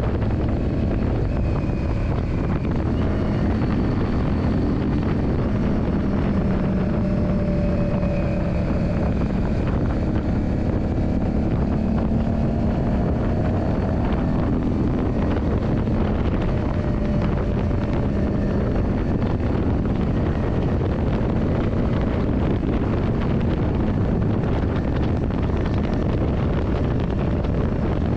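Yamaha Drag Star 400's air-cooled V-twin engine running at cruising speed, its pitch drifting gently as the throttle changes, under heavy wind buffeting on the microphone while riding.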